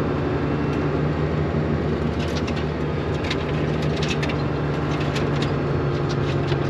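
Valmet tractor engine running steadily at raised revs, driving a tractor-mounted Tokvam snow blower, with scattered crackles about two to five seconds in.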